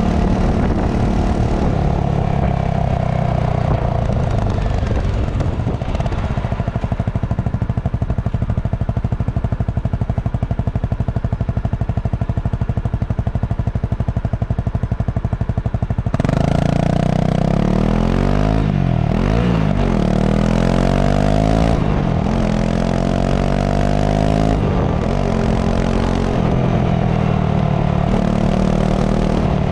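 Honda CRF250 Rally's single-cylinder four-stroke engine through its stock exhaust, running at a steady low idle. About halfway through it gets suddenly louder and the revs climb and drop repeatedly.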